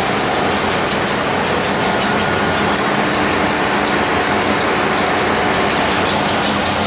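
Ship's engine-room diesel machinery running loud and steady, a deep hum under a fast, even pulsing of about six or seven beats a second.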